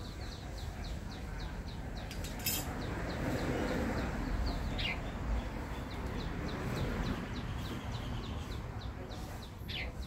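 Bird calls: a steady run of short, high chirps, about three to four a second, with a louder downward-sliding whistle about five seconds in and another near the end, over a steady background rustle.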